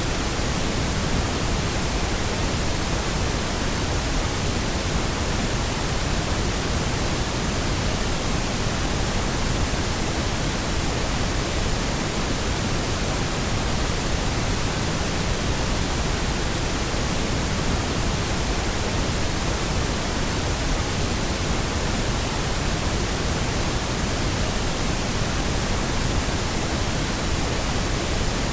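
Steady synthetic pink noise: an even, unchanging hiss across all pitches, with no events or changes.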